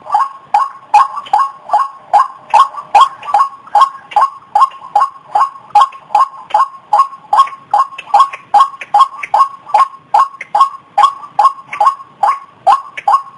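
White-breasted waterhen calling: loud, evenly repeated notes at about three a second, the fast steady series of its 'kru-ak' call used as a bird lure.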